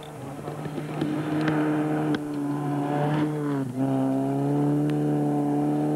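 Rally car engine running hard at high revs on a gravel special stage. The engine note dips briefly about three and a half seconds in, then carries on strongly.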